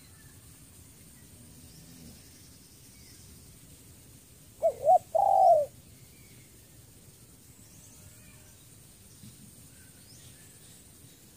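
Spotted dove cooing once about halfway through: two short, quick notes followed by a longer coo. Faint chirps of other small birds sound in the background.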